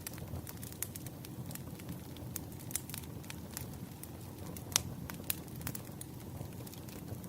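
Wood fire crackling: irregular sharp pops and snaps over a steady low rumble, with one louder pop near the middle.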